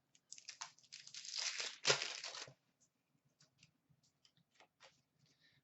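Card pack wrapper torn open, with about two seconds of tearing and crinkling, followed by light scattered clicks and rustles as it is handled.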